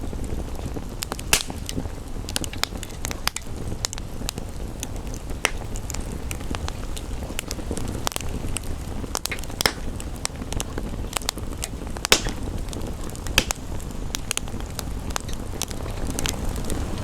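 Wood fire crackling, with irregular sharp pops over a steady rushing hiss of rain; two louder pops come about a second in and about twelve seconds in.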